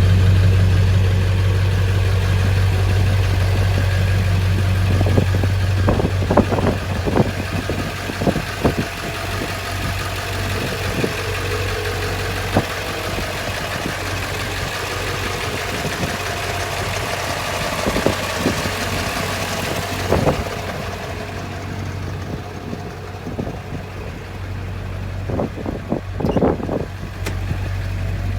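Ford Excursion's 7.3 L V8 turbo diesel engine running steadily, with a constant low, even sound. Several short knocks and clicks stand out over it, in clusters about five to nine seconds in, around eighteen to twenty seconds, and near the end.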